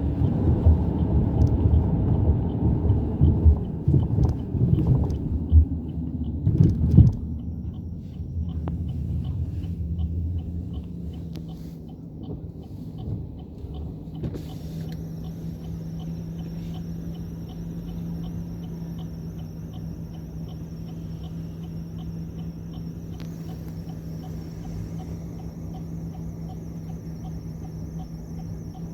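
A Chevrolet Cruze 1.6 16V on the move, with low road and engine rumble and a few knocks for the first several seconds. It then settles to a quieter steady hum from about ten seconds in. A high steady insect chirring joins about halfway through.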